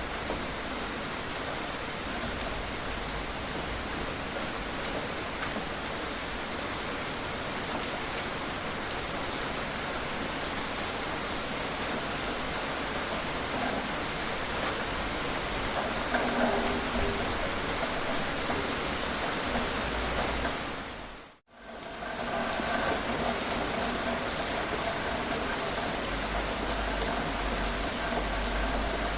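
Steady gentle rain falling on surfaces, an even hiss of drops. About two-thirds of the way through it fades out to silence for a moment and swells straight back in.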